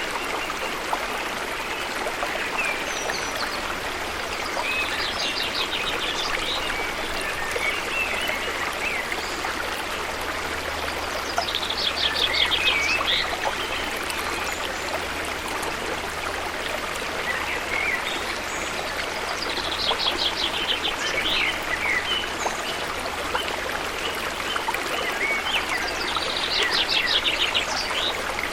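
Steady rush of water flowing at a waterfall. A bird repeats a short, fast, high-pitched phrase four times, about every seven seconds.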